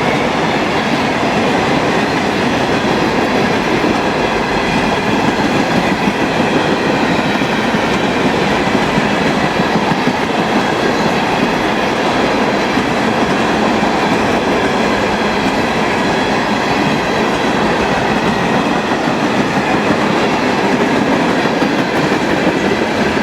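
Tropicana juice train passing at speed: a steady, loud rumble of steel wheels on rail with clickety-clack over the rail joints.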